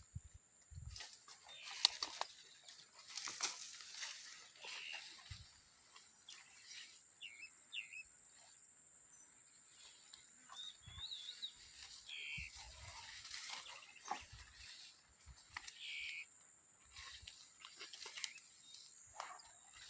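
Birds chirping now and then, short high calls scattered through, with faint clicks and rustles and a thin steady high whine underneath.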